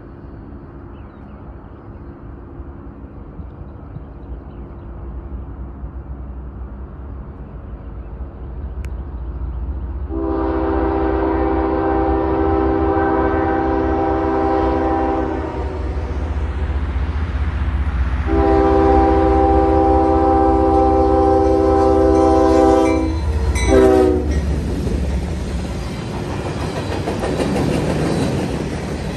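CSX freight train approaching and passing: the diesel locomotives' rumble builds, then the multi-tone air horn sounds two loud long blasts followed by two short ones. The locomotives go by and the Herzog rock hopper cars roll past with a steady rumble and wheels clacking over the rail joints.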